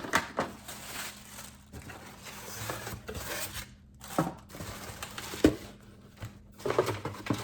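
Packaging crinkling and rustling as it is handled during unboxing, with two sharp knocks near the middle, the second the loudest.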